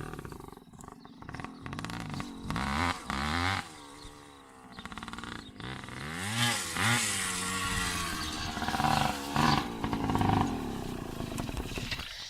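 Dirt bike engine revving up and easing off again and again, its pitch rising and falling several times.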